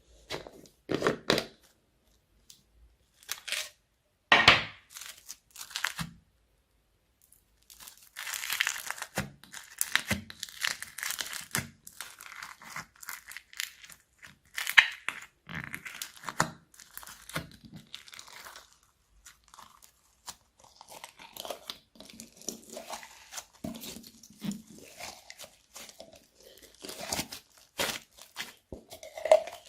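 Slime being squished, stretched and mixed by hand, making sticky crackling sounds: a few separate squishes in the first six seconds, then near-continuous working from about eight seconds in.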